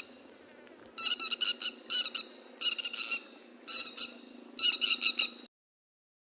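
Grey-headed lapwings calling: five short runs of sharp, rapid notes about a second apart over a faint steady hum. All sound cuts off about five and a half seconds in.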